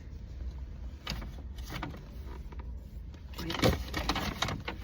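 Handling of takeout food containers: a few short clicks and knocks, then a busier run of knocking and rustling near the end, over a steady low hum.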